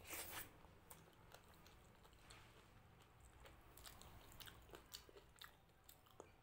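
Close-up mouth sounds of eating a handful of rice and mutton curry topped with crispy fried potato: a burst of noise as the mouthful goes in, then chewing with scattered short, sharp wet clicks.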